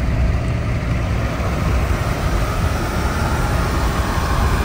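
A vehicle running, heard as a steady loud rumble with road and engine noise that builds up just before and then holds steady.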